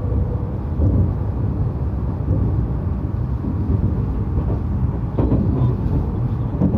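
Narita Express (JR E259 series) train running along the track, a steady low rumble heard from inside the passenger car, with a couple of short knocks from about five seconds in.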